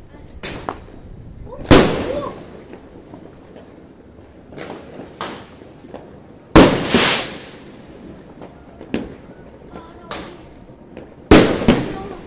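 Fireworks going off: three loud bangs about five seconds apart, each followed by a short crackling tail, with fainter pops between them.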